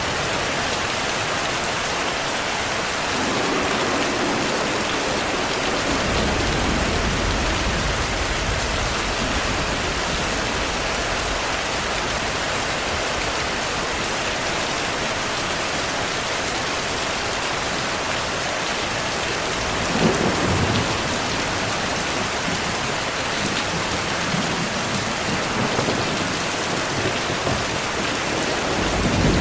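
Heavy rain falling steadily with rolls of thunder: a low rumble a few seconds in, a sharper thunderclap about twenty seconds in, and more rumbling near the end.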